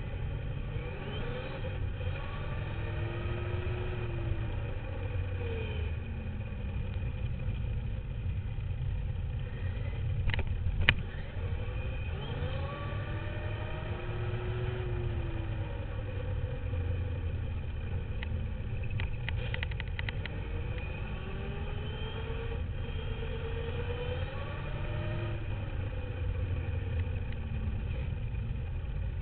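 On-board sound of a Duratrax radio-controlled dirt bike being ridden: its motor whine rises and falls in pitch with the throttle over a steady low rumble. Two sharp knocks come about ten and eleven seconds in, and a quick rattle of clicks comes around nineteen to twenty seconds.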